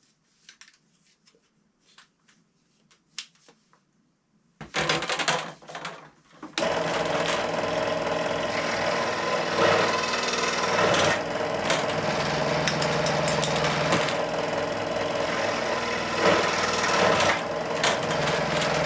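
Faint handling clicks, then a handheld power saw cutting a length of pipe lengthways: a short burst about five seconds in, a brief pause, then about twelve seconds of steady cutting.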